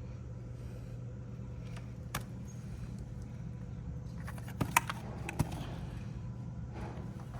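A steady low hum with a few sharp clicks and light clinks: one about two seconds in and a small cluster around the middle.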